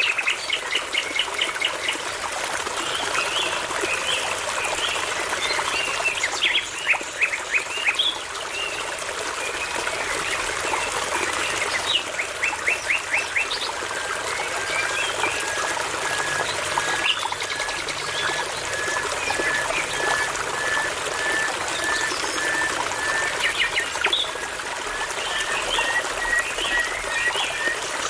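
Songbirds singing over the steady rush of a babbling brook. In the first half there are quick runs of repeated notes. From about halfway one bird repeats a single short note a little more than once a second, slowly rising in pitch.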